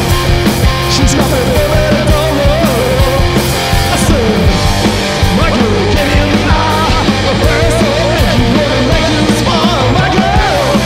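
Loud live punk-blues rock band playing: electric guitar over a steady drum beat, with a wavering lead line.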